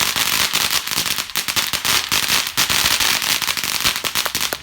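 Fireworks crackling: a dense, unbroken run of rapid sharp pops and crackles that cuts off suddenly at the end.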